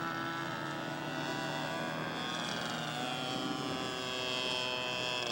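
Radio-controlled model airplane engines running at high revs. About two seconds in, a higher engine note climbs and then holds steady over a lower, steadier one.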